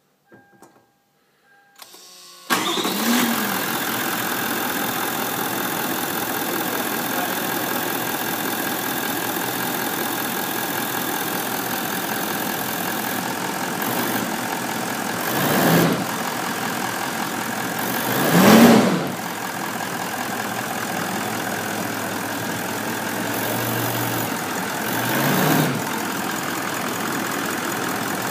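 Toyota Land Cruiser 200's 4.5-litre D-4D V8 diesel engine: a few clicks, a brief crank, and it starts about two seconds in, then idles steadily. The throttle is blipped three times, each a short rise and fall in revs, about halfway through, a few seconds later, and near the end.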